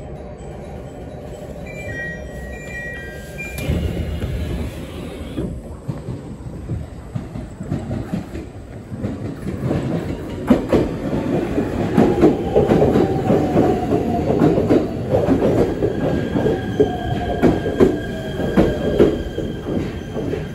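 ET127-series electric train running past close along a station platform, its wheels clicking over rail joints, with a whine that slowly falls in pitch as it goes by. A short electronic chime sounds about two seconds in.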